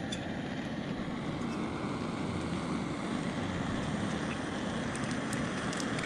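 Steady noise of wind and pouring rain, heavy and low with a gusty flutter, with a few faint ticks of drops.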